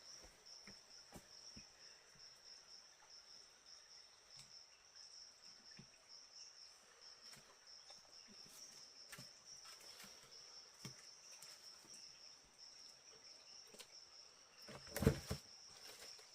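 Insects trilling steadily at a high pitch, with scattered faint clicks and a brief louder knocking clatter near the end.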